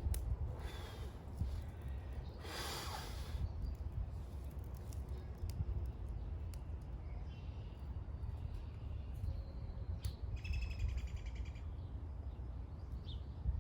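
Outdoor ambience: a steady low rumble with a brief rustle, and a bird calling with a quick trill about ten seconds in and short chirps near the end.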